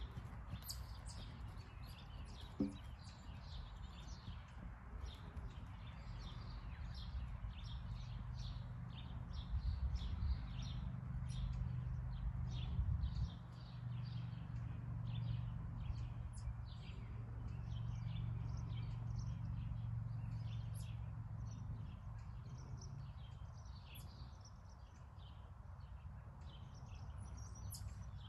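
Wild birds chirping and calling in many short notes, over a low steady rumble that grows louder through the middle.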